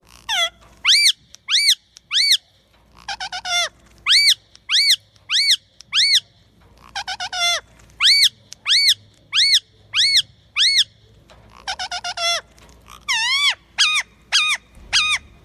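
Pet parrot whistling: a long series of short, loud arched whistles, each rising then falling, about one to two a second, broken by several runs of quick descending chirps.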